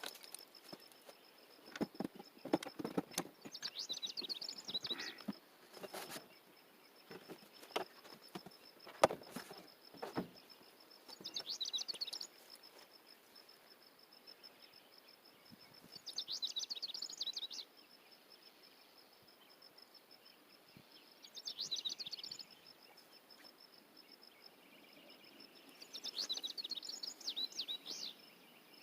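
A songbird repeats a short chirping song about every five seconds over a steady high insect trill. Several sharp knocks and clatters come in the first ten seconds, the loudest about nine seconds in.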